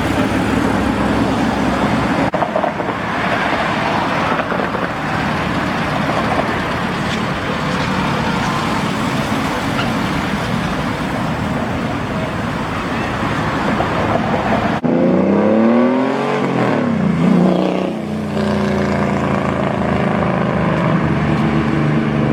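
Classic cars driving by with traffic noise. About fifteen seconds in, one car's engine revs, its pitch climbing and falling a few times, then it settles into a steady running note.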